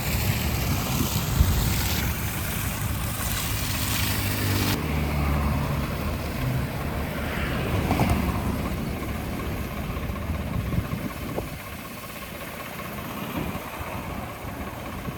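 Diesel engine of heavy road-construction machinery running. The sound changes abruptly about five seconds in and gets quieter near the end.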